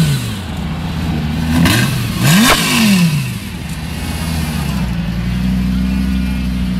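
Lamborghini Gallardo's V10 engine blipped from idle, its pitch rising and falling sharply about two and a half seconds in, then settling back to a steady idle.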